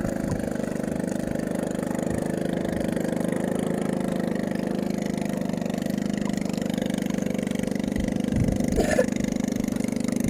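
Small engine running steadily at a low, even speed, with a few knocks about eight and a half seconds in.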